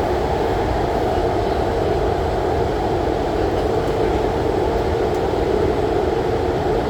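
MTR Tuen Ma line IKK-Train electric multiple unit running steadily at speed between stations: a continuous, even noise of wheels on rails and running gear.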